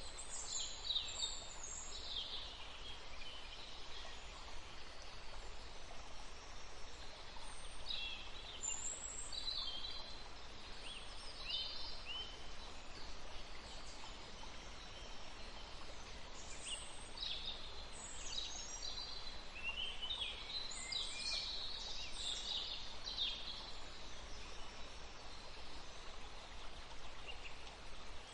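Birds singing and chirping in bursts of quick, high notes and short trills, with quieter gaps between the bursts, over a steady background hiss.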